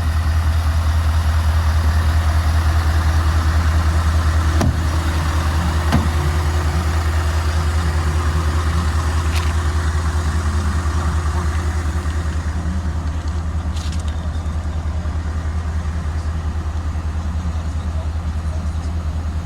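Scania S650's 16-litre V8 diesel engine idling steadily, with a couple of brief clicks about five and six seconds in.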